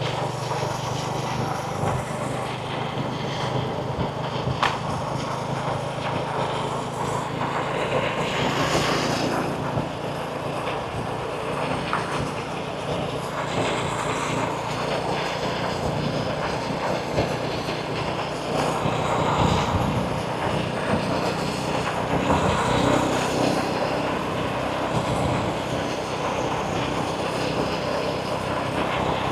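A steady engine drone over outdoor background noise; the drone fades about two-thirds of the way in.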